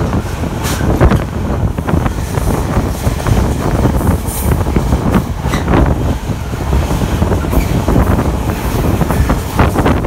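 Container wagons of a freight train passing close by at speed: loud, continuous wheel-on-rail rumble with repeated sharp clatter from the wheels.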